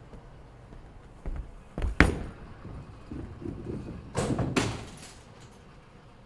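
A few knocks and thuds against a low background: a small one just over a second in, a double knock about two seconds in that is the loudest, and two more a little after four seconds.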